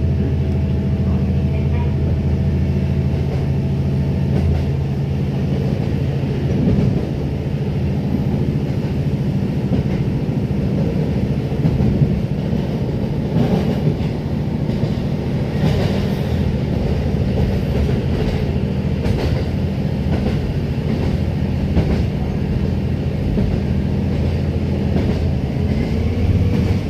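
A KiHa 150 diesel railcar running along the line: a steady low diesel engine drone, with wheels clicking over rail joints now and then.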